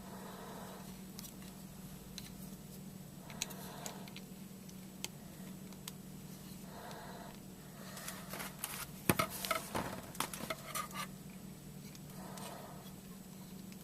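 Hands handling a plastic model airplane and its small parts: scattered light clicks, then a quick run of clicks and clatter about eight to eleven seconds in, over a steady low hum.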